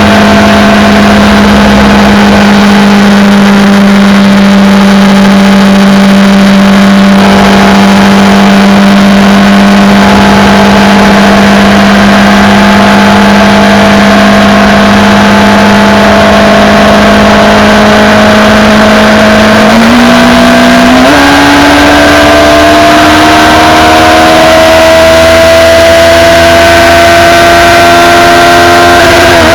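Honda CBF1000 inline-four engine running at high road speed under a full touring load, heard over loud wind rush. Its note holds steady for about twenty seconds, then steps up twice in pitch and keeps climbing as the bike accelerates, and dips briefly near the end.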